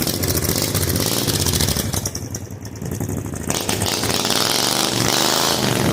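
An 18 hp V-twin minibike engine running and revving up and down, not running 100%: it has a misfire that the owner suspects comes from the coil packs.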